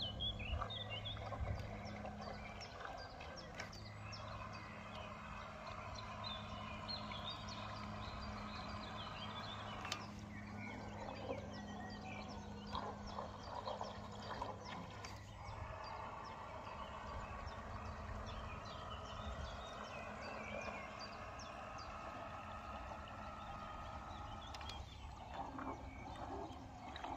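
Birds chirping and singing. Under them runs a faint steady low hum that fades out about two-thirds of the way through.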